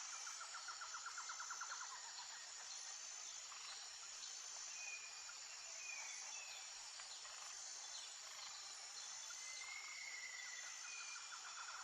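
Steady rushing of a river and waterfall, fairly faint, under a thin high insect buzz. A rapid pulsed trill sounds for the first couple of seconds and starts again near the end, and a few short bird chirps come in the middle.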